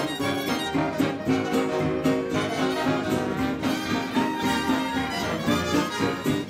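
Big band dance orchestra playing a 1930s swing tune live, with strings and brass over a steady beat.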